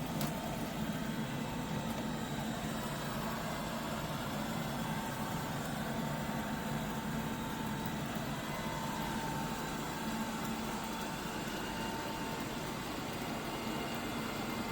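eufy RoboVac 11S robot vacuum running, a steady motor and fan whir with a faint high whine over it.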